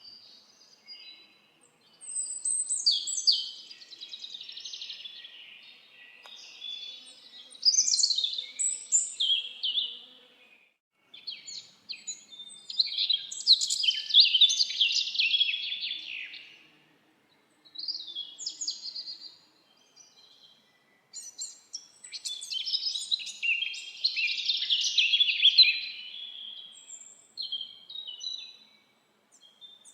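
Songbirds singing: a run of rapid, twittering song phrases, each lasting a few seconds, with short pauses between them.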